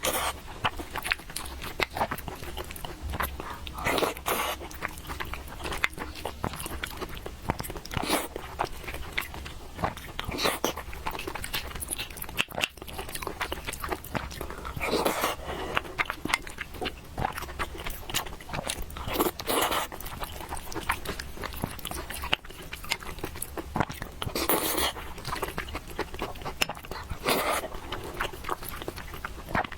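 Close-miked mukbang eating of noodles: steady wet chewing clicks, with a louder bite every few seconds.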